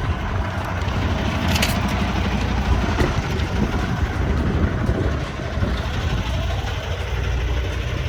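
Steady diesel engine drone and road noise inside a semi truck's cab while driving.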